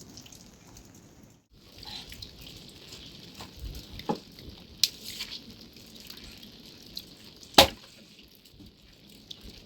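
Steady rain with dripping water, and a few sharp knocks, the loudest about three-quarters of the way through.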